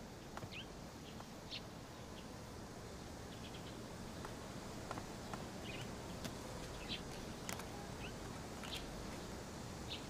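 Faint outdoor ambience: a steady low background hiss with scattered short bird chirps and a few light clicks.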